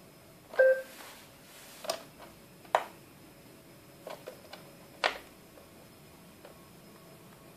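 A handful of sharp clicks and knocks at uneven intervals, the first with a brief ringing tone.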